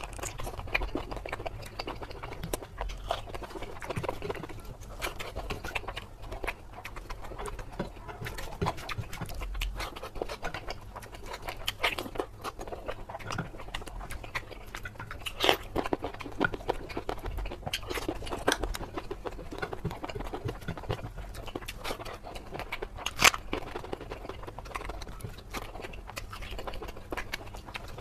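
Close-miked eating: wet chewing and mouth sounds of spicy mutton curry, mutton leg meat and rice eaten by hand, a steady run of small wet clicks and smacks with a few sharper clicks.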